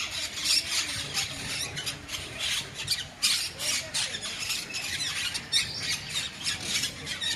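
Many birds squawking and screeching in an aviary, a dense stream of short harsh, high calls overlapping one another.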